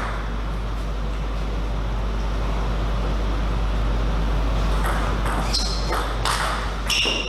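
Table tennis ball clicking off the table and rackets about five times in quick succession in the last two seconds or so, over a steady low hum.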